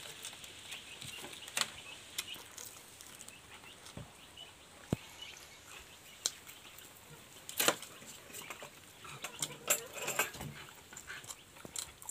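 A person eating with their hands, chewing and smacking on chicken and noodles: scattered short, sharp mouth clicks and smacks, the loudest a little past halfway and again near the end.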